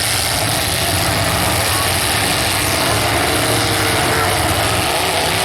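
Demolition derby car engines running together in a steady din, with no clear crash or impact standing out.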